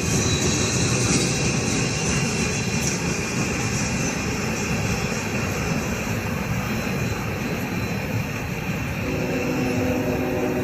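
Norfolk Southern double-stack container train rolling past: the steady rumble and hiss of the cars' wheels on the rails. A steady low drone joins near the end.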